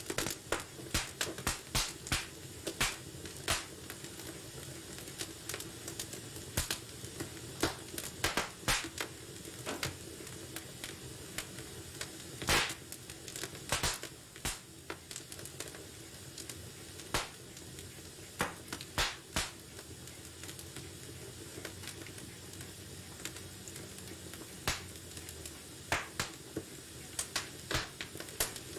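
Wood fire crackling in a fireplace: irregular sharp pops and snaps over a steady low hiss, with one louder pop about twelve seconds in.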